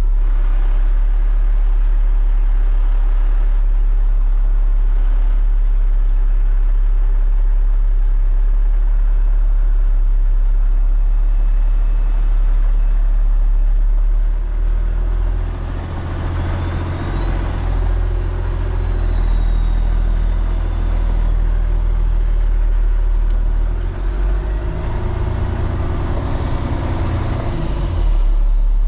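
Heavy truck diesel engine running steadily. Twice, partway through and again near the end, it picks up with a high whine that rises and then falls.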